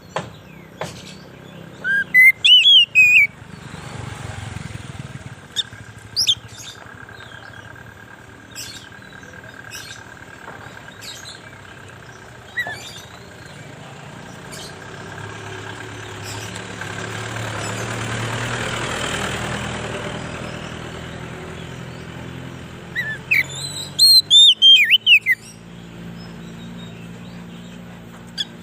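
Oriental magpie-robin (kacer) song: loud clusters of quick, sweeping whistled notes about two seconds in and again near the end, with scattered short chirps and clicks between. A low rushing noise swells and fades in the middle.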